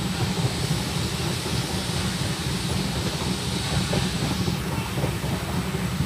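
Running noise of a moving Indian Railways express train heard from inside the coach at an open window: a steady, even rumble of wheels on the rails.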